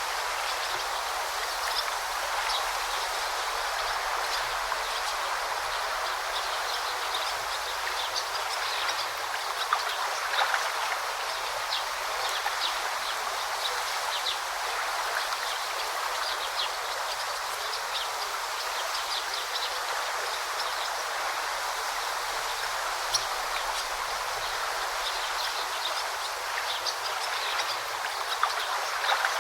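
A babbling forest stream with a steady rush of flowing water and short, high bird chirps scattered throughout.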